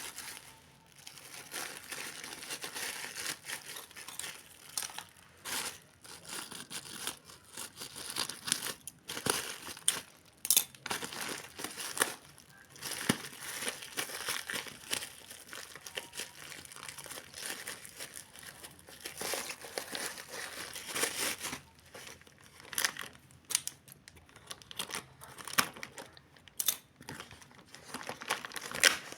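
Parcel packaging being handled and opened, with irregular crinkling and crackling and now and then a sharper rip of tearing.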